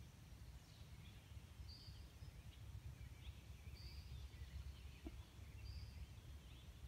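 Faint birdsong in a spring swamp: a short high note repeated about every two seconds, with scattered softer chirps. Under it runs a low, steady rumble.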